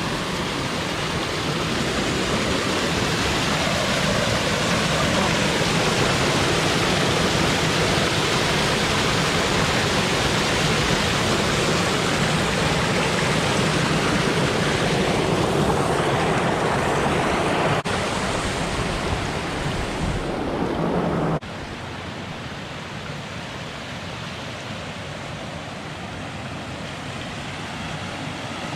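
Steady rush of a small woodland waterfall on a mountain stream. About three-quarters of the way through it drops suddenly to a quieter, softer rush.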